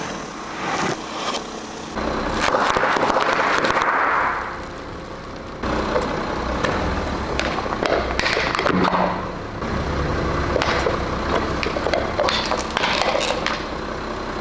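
A car's tyres rolling over and crushing objects, with a run of crackling and crunching snaps over low tyre and engine rumble.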